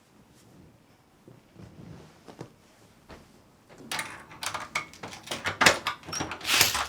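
A front door being unlocked and opened: a quick run of sharp clicks and metal rattles from the lock and latch, starting about four seconds in and loudest near the end.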